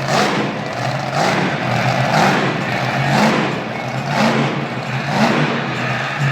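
Monster truck engine running in a stadium, with a broad pulse about once a second over a steady low hum.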